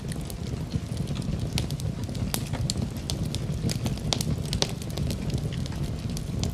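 Fire burning in a fireplace, crackling with frequent sharp, irregular pops over a steady low rumble of the flames.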